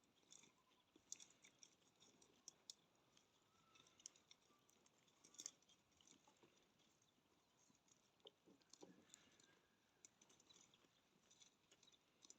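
Near silence, with faint, scattered ticks and crackles.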